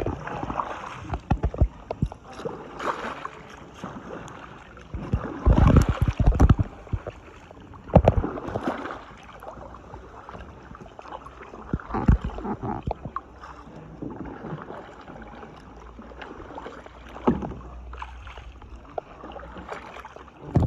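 Kayak paddle strokes dipping into and splashing through lagoon water, coming irregularly, with several louder splashes and knocks among them.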